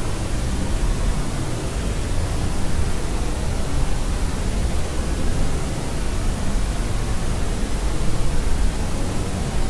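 Steady, unbroken noise of the sort played to settle a crying baby: an even hiss that is weighted towards a deep rumble, closer to pink noise than to pure white noise.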